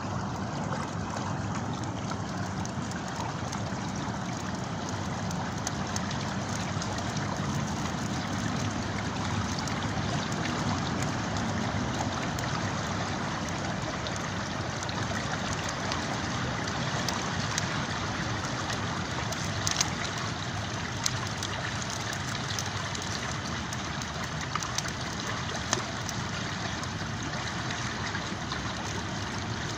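River water flowing and burbling steadily, with a few sharp crackles from a wood campfire about two-thirds of the way through.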